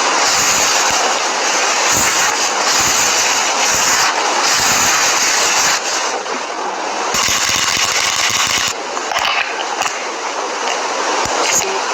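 Close-miked scratching and rustling from makeup being handled, with many small clicks and taps throughout.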